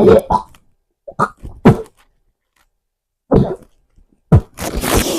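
A man retching and gagging: about five short throaty heaves, then a longer spluttering rush of noise near the end. His stomach is upset from the iced tea.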